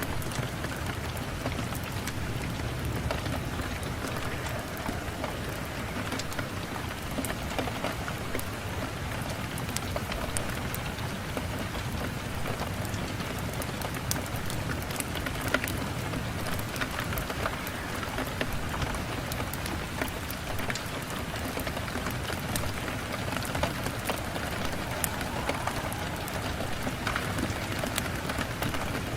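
Steady rain falling on a window glass, an even hiss with many scattered small sharp ticks of drops.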